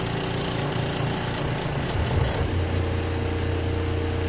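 Steady whirring of an RV exhaust fan. A low, steady machine hum joins about two and a half seconds in.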